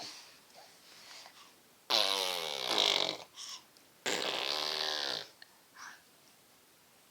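A baby making fart noises with its mouth: two loud buzzy blasts, each about a second long, with the second coming about a second after the first.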